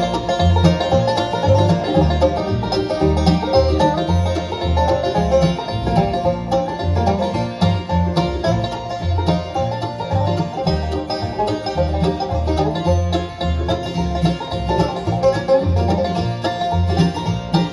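Live bluegrass band playing an instrumental introduction.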